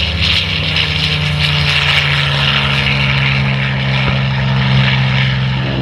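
Harvard trainer aircraft with Pratt & Whitney R-1340 Wasp radial engines and propellers running loud: a steady low drone under a harsh high rasp. The rasp eases off near the end.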